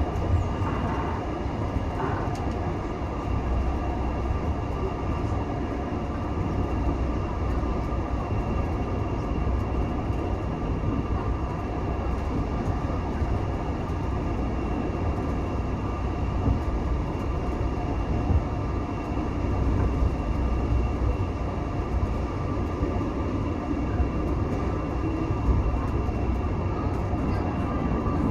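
Heritage railway passenger carriage in motion, heard from on board: a steady low rumble of wheels on the track with a faint running hum, and a few light knocks in the first couple of seconds.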